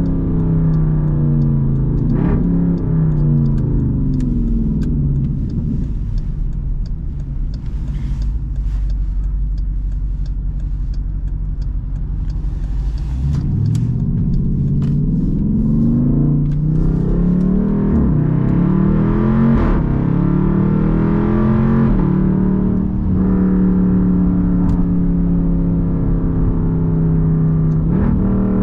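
Straight-piped Jeep Grand Cherokee SRT's 6.4-litre HEMI V8 exhaust, heard from the cabin. It cruises at a low steady drone, then about halfway through pulls hard through several quick upshifts, the pitch climbing and dropping back each time, before settling into a steady cruising drone.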